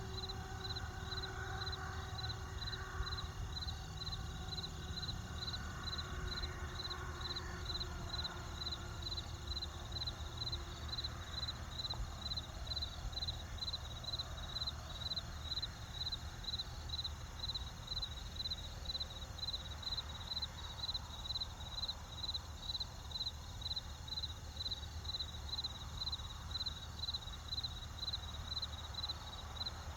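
Crickets chirping in an even rhythm, about two chirps a second, over a steady low rumble.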